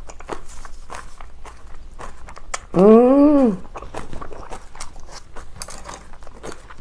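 Close-up chewing of a mouthful of seasoned cabbage kimchi: a steady run of wet, crunchy smacks and clicks. About three seconds in comes a short hummed "mmm" of appreciation, rising then falling in pitch, the loudest sound here.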